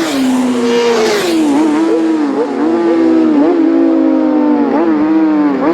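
Road-racing motorcycle engine running at high revs, its pitch briefly dipping and coming back up several times as the rider works the throttle and gears, with a rush of passing noise in the first second.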